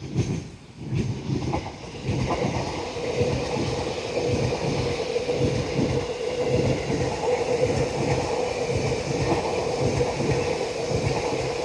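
Sotetsu 12000 series ten-car electric train running past, its wheels clattering over the rail joints in a quick, even rhythm with a steady hum running through it. The sound builds over the first couple of seconds, then holds loud.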